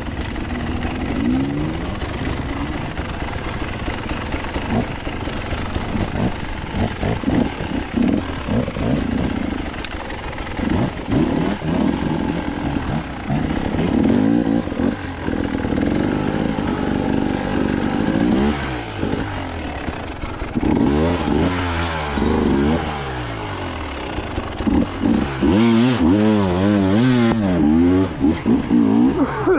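Dirt bike engine being ridden off-road, revving up and falling back over and over as the throttle opens and closes, with rattling from the bike. The revving comes in quicker, sharper swings over the last few seconds.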